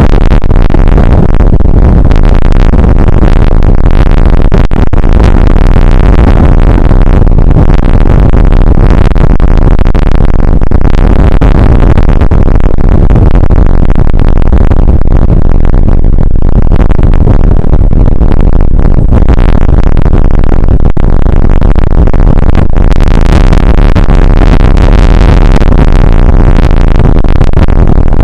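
Rain and wind on an outdoor weather camera's microphone, coming through as a steady, heavily overdriven noise with a deep rumble underneath.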